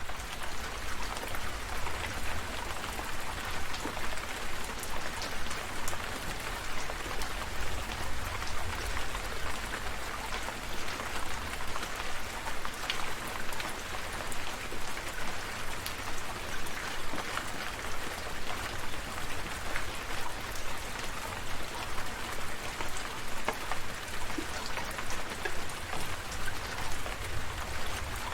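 Steady rain falling, individual drops ticking sharply and close over a constant hiss, with a low rumble underneath.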